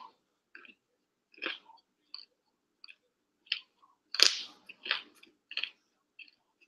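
A person biting and chewing broccoli florets: irregular crunches, with a loud bite about four seconds in.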